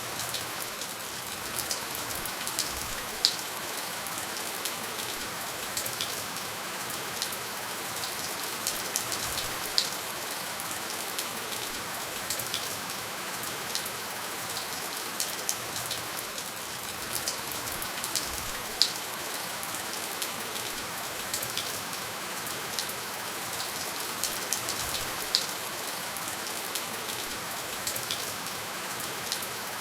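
Steady rainfall with no thunder: an even hiss of rain with scattered louder individual drops ticking now and then.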